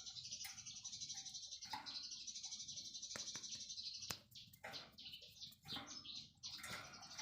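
Songbird chirping over a dense, continuous high-pitched trill, with many short quick calls layered on top. It is a filler-song ('isian') recording for training white-rumped shamas (murai batu).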